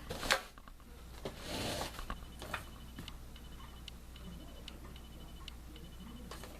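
Clicks and light handling taps of small metal parts and screws while a box fan's grill is being screwed back on. There is a sharp click about a third of a second in, a brief rustle a second later, then scattered clicks over a faint fast ticking and a low steady hum.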